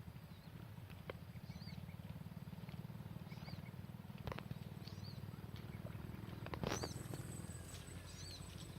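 Small birds chirping in short high calls over a steady low rumble, with a few sharp clicks; the loudest click comes near the end.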